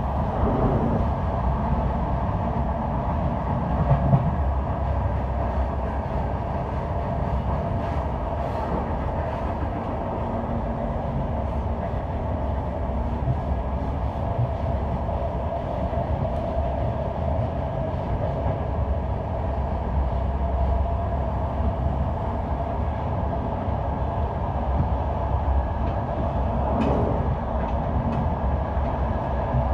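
Passenger train running along the track: a steady rumble of wheels on rail, broken by a few brief clicks about 4 seconds in, around 8 seconds in and near the end.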